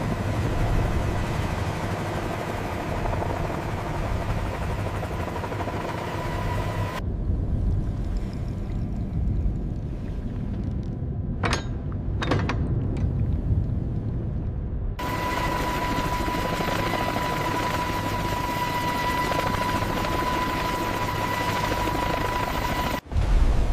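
Helicopter rotor and engine noise: a steady low rumble with a thin, even whine. It changes abruptly twice, about a third of the way in and again past the middle. In between, the high end drops away and there are two sharp clicks.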